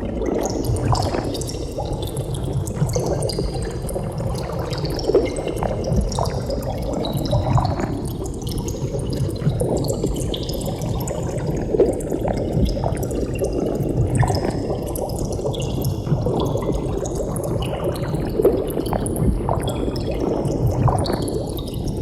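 Continuous bubbling of water, a dense stream of small bubbles gurgling and popping.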